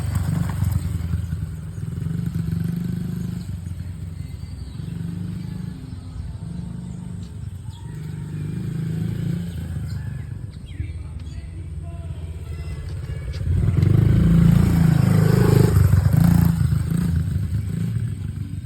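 Mini moto engine running, its note rising and falling, loudest for a few seconds about two-thirds of the way in as it comes close.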